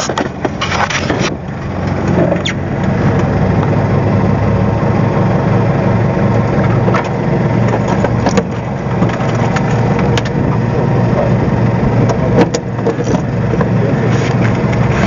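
Fishing boat's engine running steadily with a low hum that swells about two seconds in and then holds. A few clicks and rattles come near the start.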